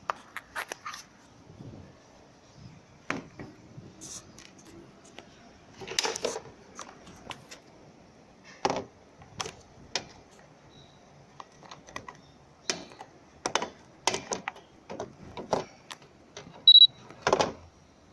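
Scattered clicks, knocks and clatter of things being handled, irregular and a few seconds apart. Near the end comes one short high-pitched electronic beep, the loudest sound, followed by a louder knock.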